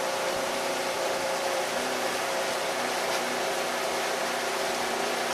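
Pontoon boat's outboard motor running at a steady pitch under way, with a constant rush of wind and water noise over it.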